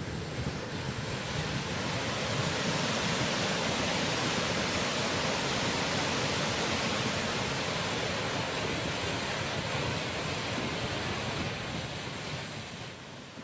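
Steady rushing of fast-flowing floodwater. It swells up over the first couple of seconds and fades out near the end.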